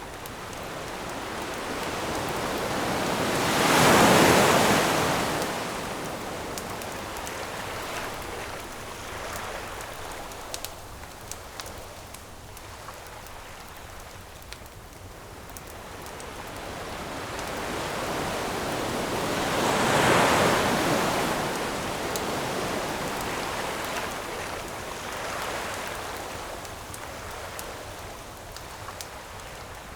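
Ocean waves breaking on the shore, each swelling up and washing back down, two big breakers about sixteen seconds apart, near the start and in the middle. Light crackling of a campfire pops over the surf.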